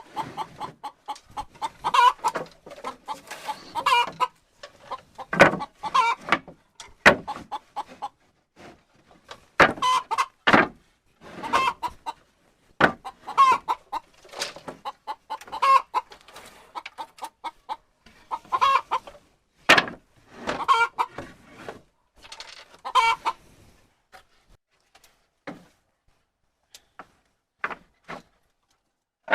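Chickens clucking, many short calls in quick irregular runs. The calls stop a little past two-thirds of the way through, leaving only a few faint clicks.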